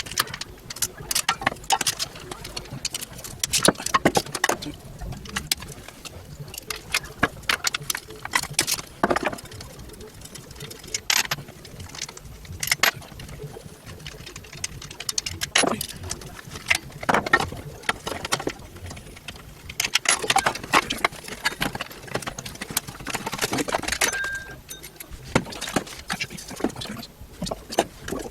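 Irregular metallic clicks, clinks and knocks of hand tools on a 50cc two-stroke mini dirt bike while its exhaust pipe is being unbolted.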